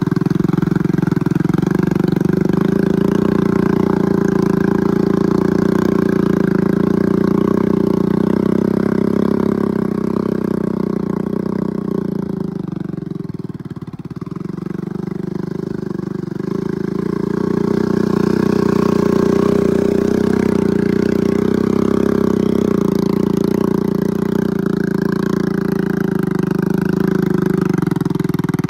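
Small Honda motorbike engine running steadily under throttle as it pushes through mud. The sound fades for a few seconds around the middle, as the bike moves farther off, then comes back up close.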